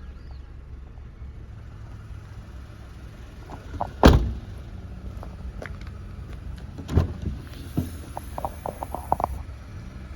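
A car door shutting with a heavy thud about four seconds in, then a few softer knocks and a quick run of clicks near the end, over a low steady rumble.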